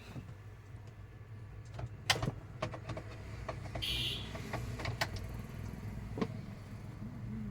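Scattered clicks and light knocks from handling the amplifier test setup while switching to its second channel, over a faint steady low hum, with one short hiss about four seconds in.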